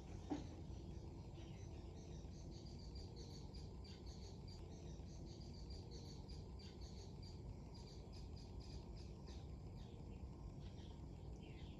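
Rapid, high chirping, most likely a small bird, repeating several times a second over a steady low rush of wind and waves on the lake. A brief, louder low call sounds about a third of a second in.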